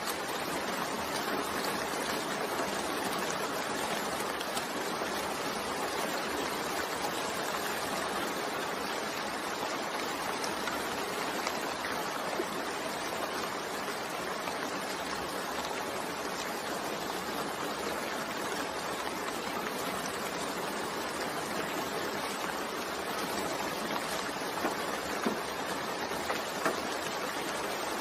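Steady rain falling, an even hiss with a few louder drop ticks near the end.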